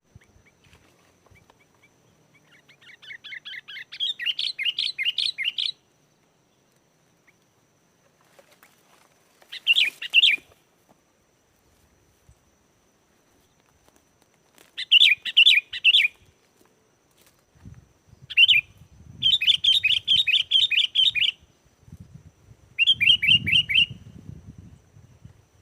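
Sooty-headed bulbul (kutilang) singing: about six bursts of fast, repeated chattering notes, each a second or two long with pauses between, the first growing louder as it goes.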